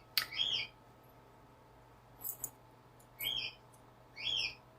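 Cockatiel calling: three short chirps, the first right at the start and two close together near the end.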